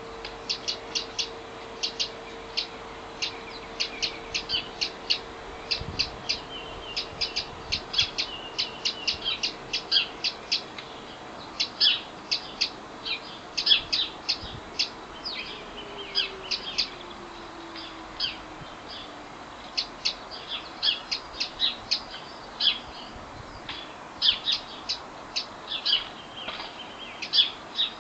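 Garden birds chirping: a rapid, irregular run of short, sharp chirps, several a second at times, continuing throughout. Beneath them a faint steady hum slides down in pitch about halfway through and fades.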